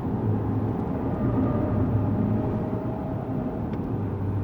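Lexus GS200t's 2.0-litre turbocharged four-cylinder engine and tyre and road noise, heard from inside the cabin as the car is driven at speed on a race track; a steady low rumble with a faint engine tone that drifts in pitch.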